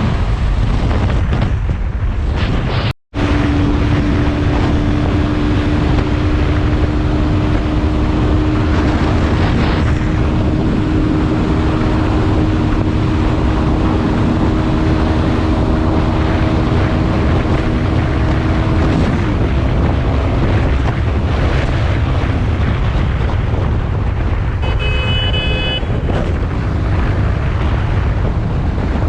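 Bajaj Pulsar NS160 single-cylinder motorcycle riding at speed, with wind rushing loudly over the microphone and a steady engine tone beneath it. A short horn sounds near the end, and the sound drops out for an instant about three seconds in.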